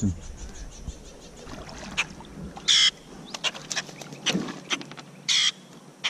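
A bird giving short, harsh squawks twice, about two and a half seconds apart, with light clicks and knocks between them.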